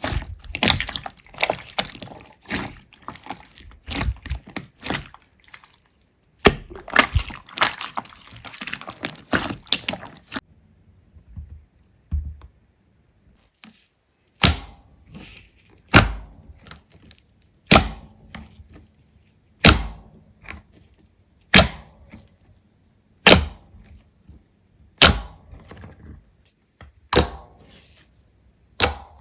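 Slime being handled for ASMR: a dense run of crackling, crunching clicks for about ten seconds, stopping suddenly. After a short pause come single sharp snaps with a soft thud, evenly spaced about every two seconds.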